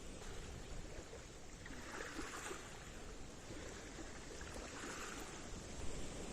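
Faint water lapping, with two soft swells of splashing about two and five seconds in.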